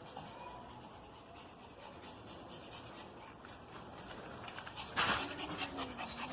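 A dog panting and breathing, faint for the first few seconds, with a loud breath about five seconds in and quick panting after it.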